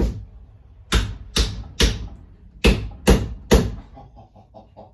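Hammer blows driving a vintage Winchester axe head home onto its wooden handle: seven sharp strikes in quick groups, followed by faint rapid ticking near the end.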